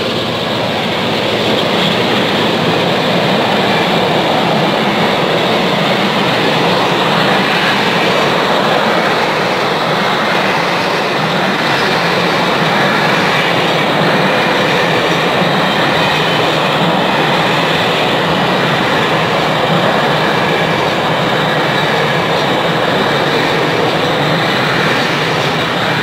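A train passing close by: a loud, steady rolling noise of wheels on rails that holds for the whole stretch.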